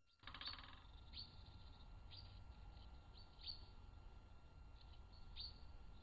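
Faint bird calls in woodland: about five short, high chirps, each sweeping downward, spaced a second or more apart, over a steady low background hum.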